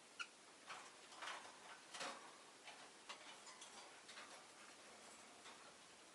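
Very quiet room with faint, irregular clicks and taps from a peach-faced lovebird moving and pecking about, and one very short soft chirp just after the start.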